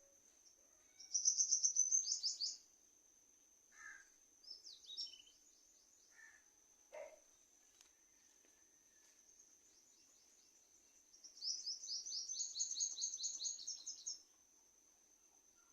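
Birds singing and calling in early-morning birdsong: two loud, rapid, high trilling songs, the second about three seconds long near the end, with a softer trill and a few short lower chirps between them. A steady high-pitched whine runs underneath.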